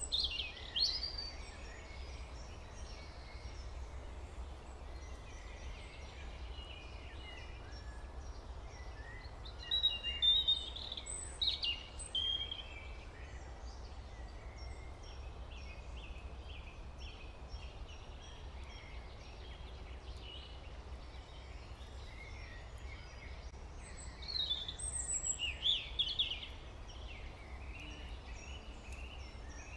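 Birds chirping in short bursts of song, loudest about ten seconds in and again near twenty-five seconds, over a steady low hum.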